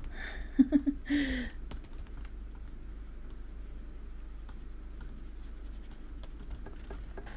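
A short murmured vocal sound about a second in, then faint scattered light ticks and scratches over a steady low hum.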